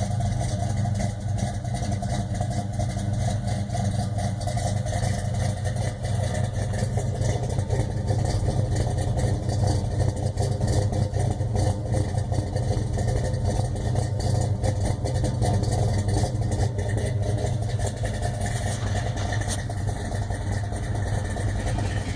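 1968 Plymouth Road Runner's 383 cubic-inch big-block V8 idling steadily.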